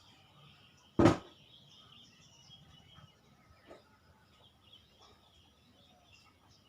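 Faint chirping of wild birds in the background, with one sharp knock about a second in.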